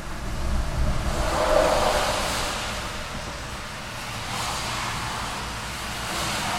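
Road traffic: a car passes close by with tyre noise and engine rumble, loudest about one and a half to two seconds in, followed by two fainter vehicles passing.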